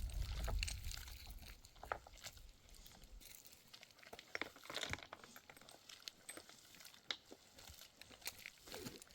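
Faint, irregular crackles and clicks, like small objects or dry material being handled, after a low rumble that fades out over the first second.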